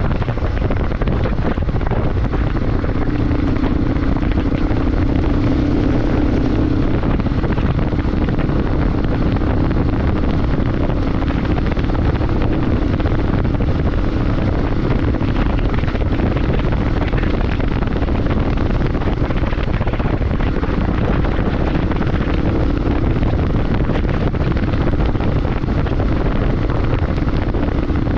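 Motorcycle riding at a steady speed: heavy wind rushing over the microphone with a steady engine note underneath.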